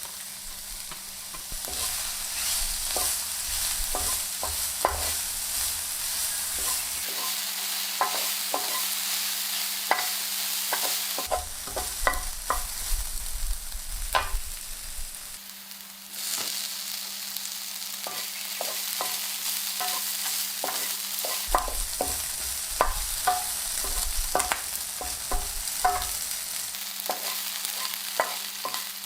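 Food sizzling in a frying pan, with a utensil stirring and scraping and many small clicks against the pan. The hiss dips briefly about halfway through and then comes back.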